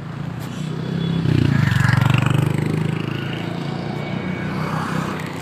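A motorcycle engine running close by, growing louder about a second in and easing off again after about three seconds.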